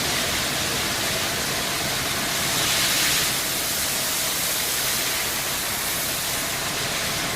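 Steady hiss of water spraying onto a car as it is rinsed, cutting off abruptly at the end.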